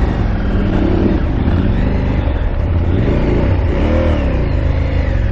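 KTM 890 Adventure R's parallel-twin engine running under riding load off-road, its revs rising and falling several times as the throttle is worked.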